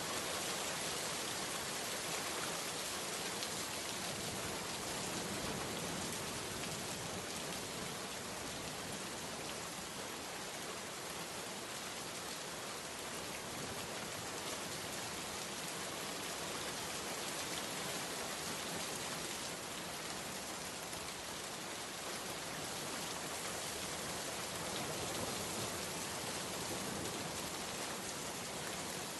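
Steady heavy rain falling and pattering on surfaces, a dense even hiss with no thunder or other events.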